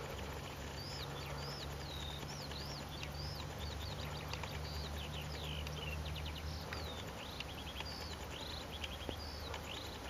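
Birds chirping: many short, quick, sweeping notes repeated throughout. Underneath there is a steady low hum that fades out about seven seconds in.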